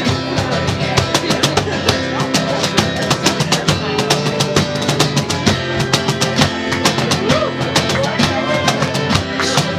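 Live acoustic ensemble playing an instrumental passage: quick, steady hand-percussion strikes over plucked strings and sustained melodic lines.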